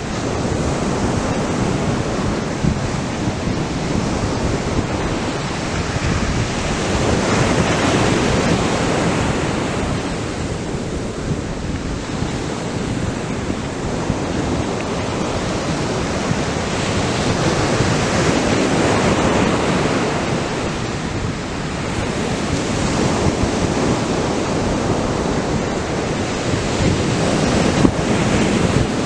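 Atlantic surf breaking on the beach: a continuous wash of waves that swells up every several seconds as each wave breaks and then falls back.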